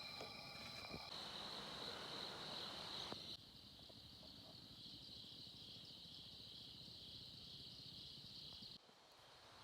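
Night insects trilling in a faint, steady, high-pitched chorus.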